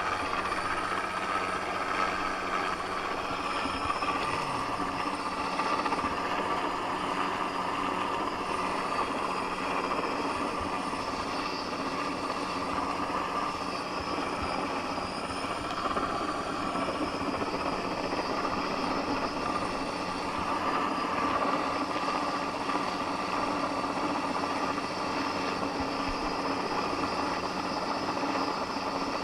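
Crane helicopter running steadily: a constant rotor and turbine drone with several steady tones over it.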